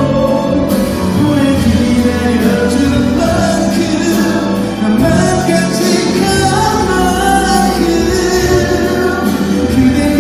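A male ballad singer singing live over a backing track, held, sustained sung notes above the accompaniment.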